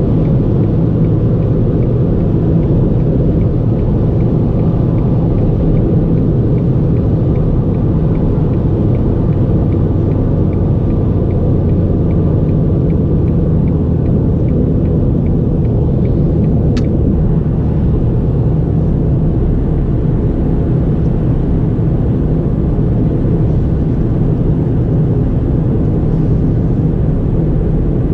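A 2009 Ford Fiesta 1.4 four-cylinder with automatic transmission being driven at a steady pace: an even, low rumble of engine and road noise. A faint, regular ticking runs through the first half and stops, and a single click comes about two-thirds of the way in.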